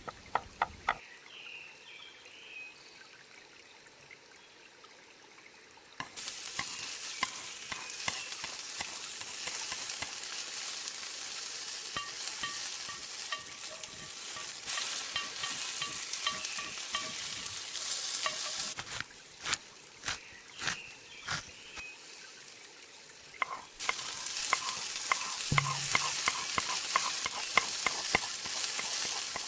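Food sizzling in a frying pan, with the clicks and scrapes of a utensil stirring it. The sizzle starts suddenly about six seconds in, drops away for a few seconds past the middle, and comes back near the end.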